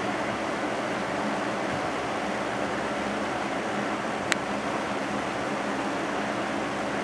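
Early-1980s Sears 453.812100 box fan with a Lasco shaded-pole motor running on medium speed: a steady rush of air over a faint, steady motor hum. A single sharp click about four seconds in.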